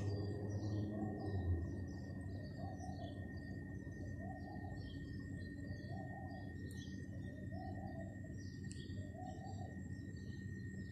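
Birds chirping: many short, scattered chirps, with a lower call repeated about once a second. A faint steady high tone runs underneath.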